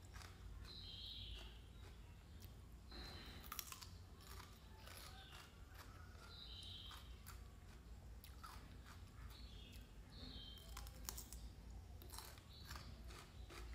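Close-up chewing and crunching of a raw green vegetable, quiet crisp crunches scattered through. Short high chirps recur every second or two in the background.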